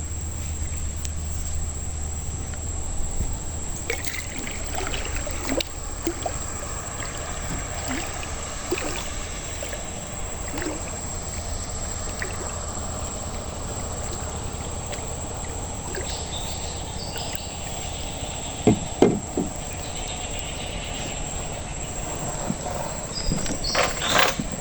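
Water trickling and pouring, with occasional light knocks and a steady high insect drone in the background.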